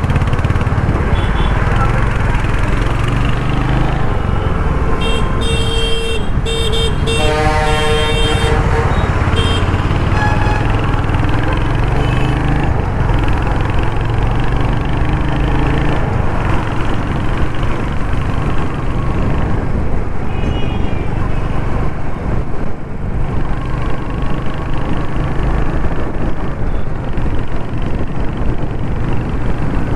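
Royal Enfield Hunter 350's 350cc single-cylinder engine running steadily while riding in traffic, with wind and road noise. Vehicle horns honk several times between about five and nine seconds in.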